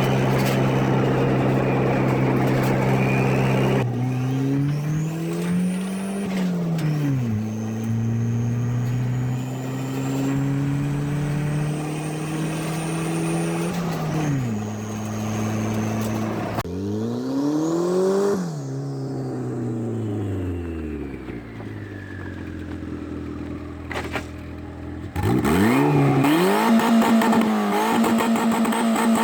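Turbocharged Honda CRX four-cylinder engine being driven hard. The revs hold high, drop sharply at several gear changes and climb again, fall away to a low steady idle about two-thirds of the way in, then rise loud with quick revving near the end. A thin high whistle rises and falls with the revs over the engine.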